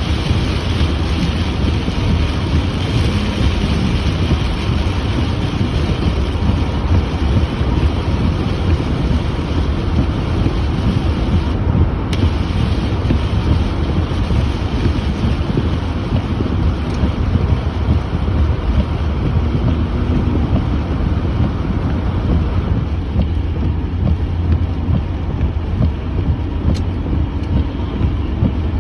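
Heavy rain and strong wind, a steady noise throughout, with wind rumbling on the microphone.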